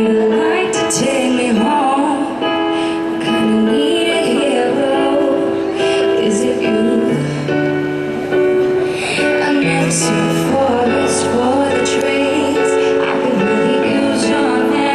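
Live slow ballad: a woman singing over sustained piano chords.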